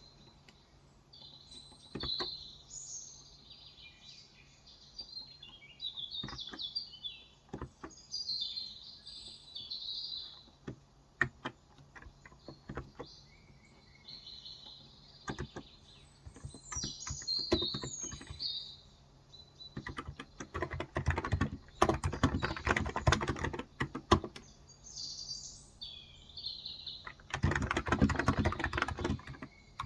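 Typing on a Cox Endeavor electrostatic capacitive (contactless) keyboard with 35 g switches. It starts as scattered single keystrokes, then comes in two fast runs, one about two-thirds of the way in and one near the end. Small birds chirp and twitter throughout.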